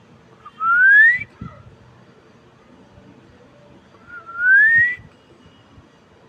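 Pet parrot whistling twice, each a rising whistle about two-thirds of a second long, the second about three and a half seconds after the first.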